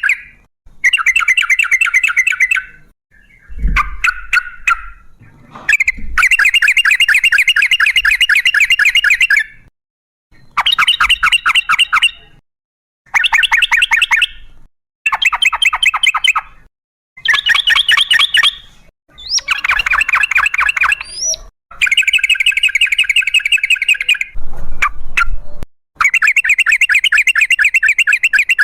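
Yellow-vented bulbul (trucukan) singing loudly in long, rapid, bubbling rolled phrases, about ten of them, each one to three seconds long with short pauses between.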